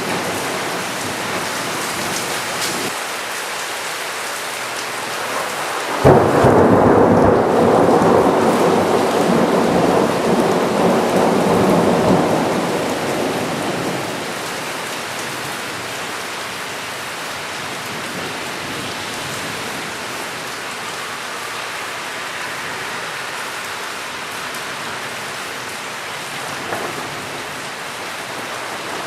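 Steady rain falling during a thunderstorm. About six seconds in, a sudden clap of thunder breaks in and rumbles on for several seconds before fading back under the rain.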